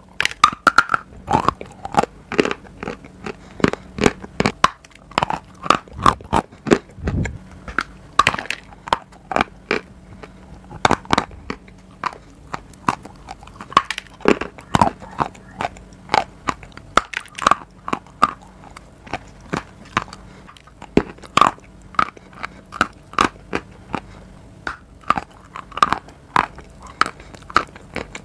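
Close-miked biting and chewing of a hard, pale bar: many sharp, irregular crunches and clicks, several a second.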